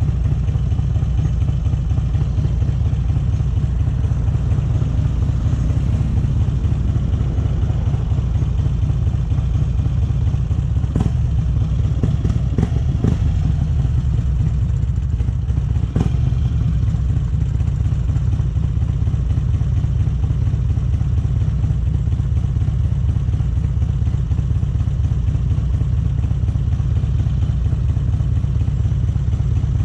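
Harley-Davidson Electra Glide V-twin running steadily through aftermarket Vance & Hines exhaust pipes, a deep even rumble with no revving. A few short clicks come through about a third and halfway in.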